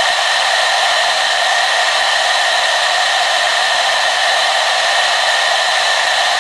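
Hair dryer running steadily: an even rushing blow with a constant whine in it, unchanging throughout.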